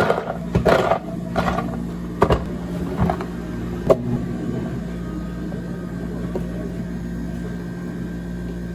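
Cafe room ambience: a steady machine hum, with short knocks and clatter of cups and handling in the first few seconds, then only the hum.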